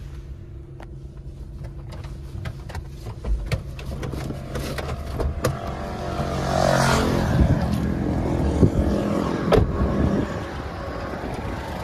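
Maruti Suzuki WagonR engine idling steadily on CNG, its revs holding with no drop after a cylinder-head repair (valves and valve seals replaced). Scattered clicks and knocks from the car are heard over it, with a louder rustle about two-thirds of the way in and a sharp knock near the end.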